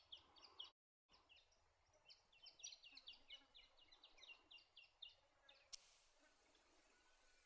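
Small finches chirping faintly: a quick, irregular run of short, high chirps from several birds. A steady high hiss comes in abruptly about three-quarters of the way through.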